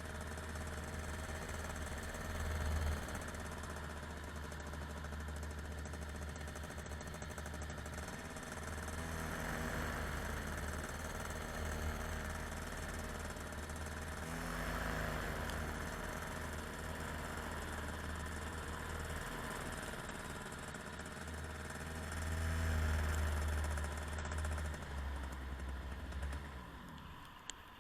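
An engine or motor runs steadily throughout, with wind buffeting the microphone in gusts. The sound falls away sharply near the end.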